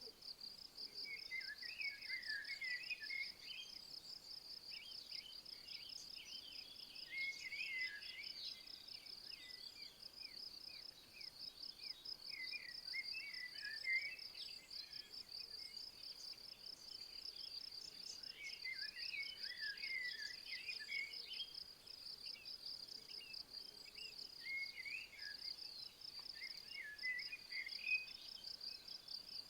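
Insect chirping in a steady, fast, high-pitched pulse. A songbird sings short twittering phrases every few seconds over it.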